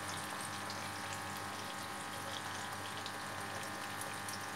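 Coconut, mustard and green chilli paste sizzling steadily in hot mustard oil in a frying pan, with scattered small crackles, over a steady background hum.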